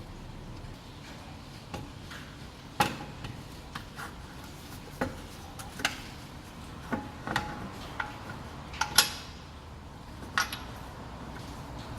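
Metal hand tools and parts clinking and knocking against each other now and then, about a dozen short sharp clinks at uneven intervals, the loudest about nine seconds in.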